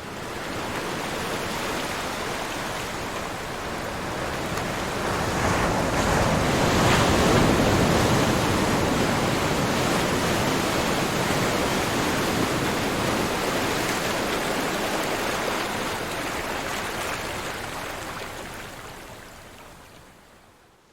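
Ocean surf: a continuous wash of breaking waves that swells to its loudest about a third of the way in, then slowly fades out near the end.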